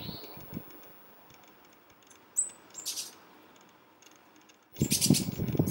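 Quiet outdoor ambience with one short, high, falling chirp from a small bird and a brief hiss after it. Near the end a sudden, louder run of scratching and irregular knocks, as a blue tit scrabbles against the wooden nest box at its entrance hole.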